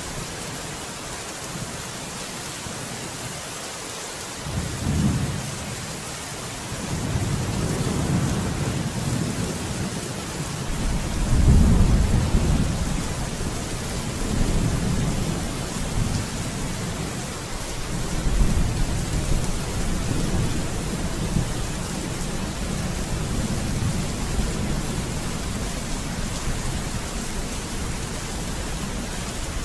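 Steady rain with thunder: a short rumble about five seconds in, then a long rolling peal that builds to its loudest near the middle and keeps rumbling in weaker waves through the rest.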